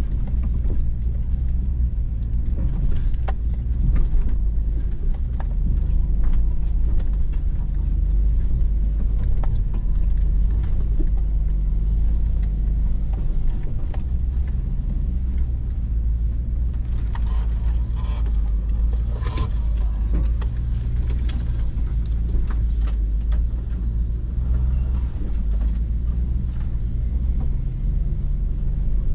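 Hummer H2's V8 engine idling steadily, heard from inside the cab, with scattered light clicks and knocks over it.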